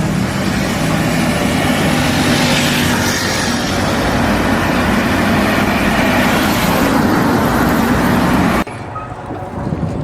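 Loud, steady machine noise like a running engine, with a low hum under a noisy wash. It cuts off suddenly near the end, leaving a quieter sound.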